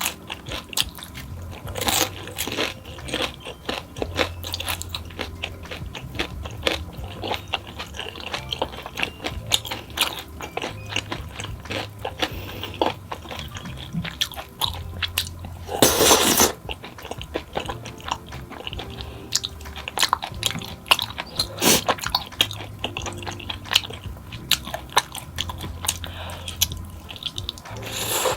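Close-miked eating: biting into and chewing crunchy fried snacks, with a dense run of sharp crunches and crackles and one louder crunching bite about halfway through.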